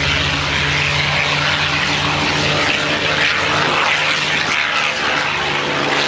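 Propeller-driven P-51 Mustang fighter with its Rolls-Royce-designed Merlin V-12 engine, running loud and steady as it flies overhead. The low engine tone thins out about halfway through, while the rushing propeller and exhaust noise carries on.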